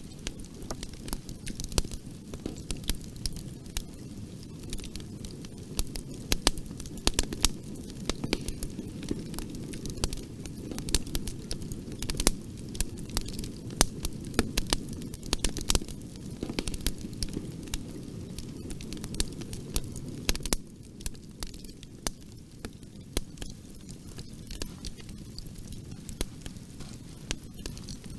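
Fireplace fire crackling: frequent sharp pops and snaps over a steady low rumble of flames. The pops come thickest through the middle, and the rumble drops a little about two-thirds of the way through.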